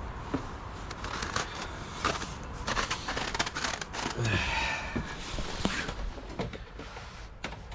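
Footsteps and handling noise: irregular clicks and crunches over a low steady rumble, with a short squeaking scrape about halfway through.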